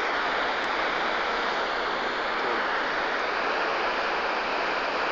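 Steady rushing of a large waterfall, an even continuous noise of falling water.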